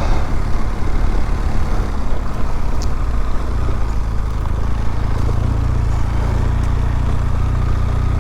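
BMW R1200GS boxer-twin engine running at low speed on a dirt track, its low note settling to a steady, even beat about a third of the way in.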